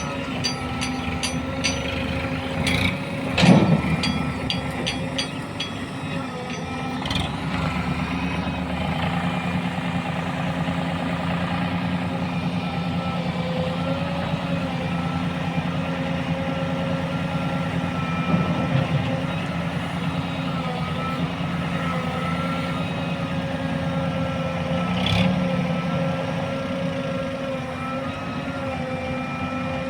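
Heavy diesel machinery engine running steadily, with a loud clank about three and a half seconds in and a rapid regular ticking over the first few seconds.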